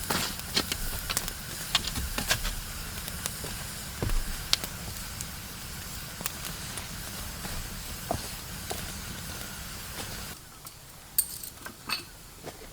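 Wood fire crackling: irregular sharp pops and snaps over a steady hiss. The hiss drops away abruptly about ten seconds in, leaving a few last clicks.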